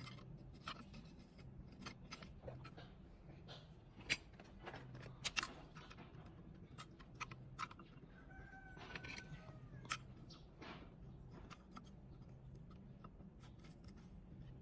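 Scattered light metallic clinks and taps of motorcycle clutch plates being handled and fitted into the clutch. A chicken clucks faintly about two-thirds of the way through.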